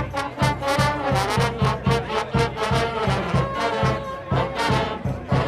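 Brass band music with a steady beat, trombones and trumpets to the fore.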